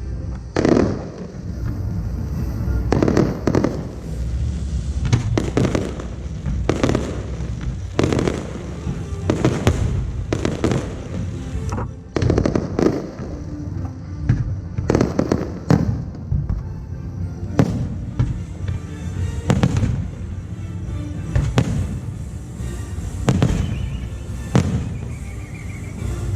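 Aerial firework shells bursting in a long rapid series, with a sharp burst about every one to two seconds.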